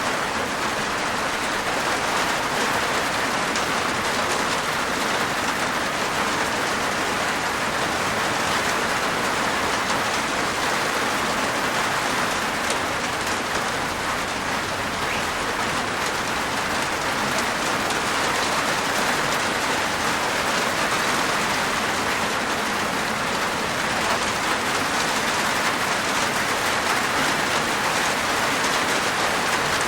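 Steady rain falling on a rooftop, an even patter of raindrops with no let-up.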